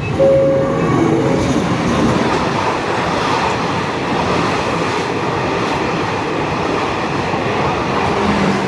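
Passenger train passing close by: a steady, loud rush of wheels on rail with rattling cars. A steady on-off warning tone sounds briefly at the start.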